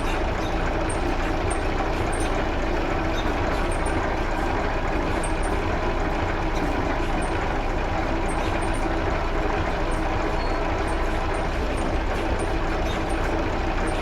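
Heavy tractor engine running steadily at idle, an even, unchanging drone with faint irregular clicks over it.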